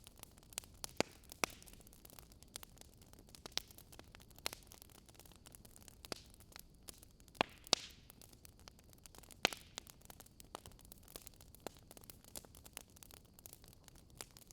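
Wood fire crackling: irregular sharp pops and snaps over a steady soft hiss, the loudest pops about a second in, twice around seven and a half seconds in, and once near nine and a half seconds in.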